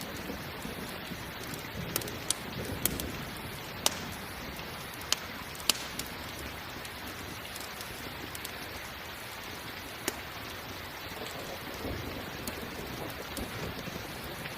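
Steady rain falling, with the sharp pops and crackles of a burning campfire, a handful in the first six seconds and one more about ten seconds in, and low rumbles swelling near the start and near the end.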